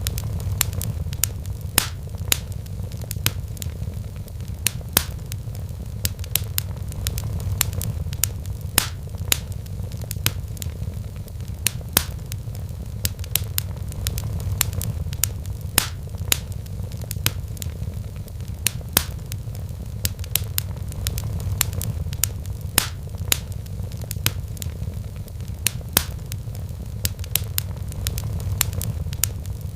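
Wood fire crackling in a fireplace: frequent sharp pops and snaps, irregular and often several a second, over a steady low rumble.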